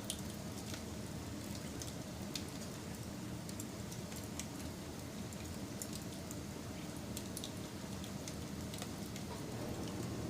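Wood fire crackling: scattered small pops and snaps over a steady low hiss.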